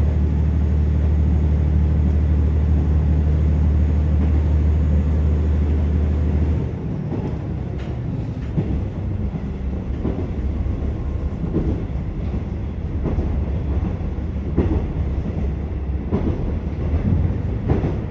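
Interior of a KiHa 47 diesel railcar running: the diesel engine drones steadily under power, then throttles off about six and a half seconds in, and the car coasts with wheel rumble and irregular knocks from rail joints.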